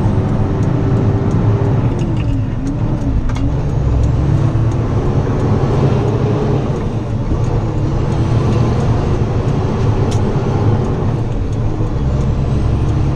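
Semi-truck running on the road, heard from inside the cab: a steady low rumble of engine and road noise with a whine that dips briefly twice, about two and a half to three seconds in, then rises and holds.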